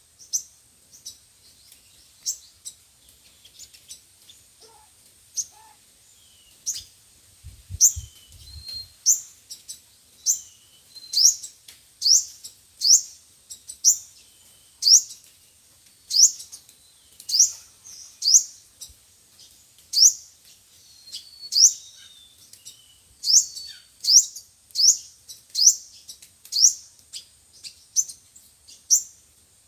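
Sunbird calls, used as a speaker lure for trapping: a run of short, sharp, high chirps, sparse at first and coming about one or two a second from about seven seconds in. A brief low thump sounds about eight seconds in.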